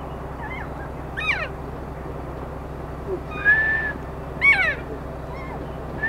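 Birds calling: a descending whistled note about a second in and again about four and a half seconds in, with a short held whistle between them and a few fainter notes.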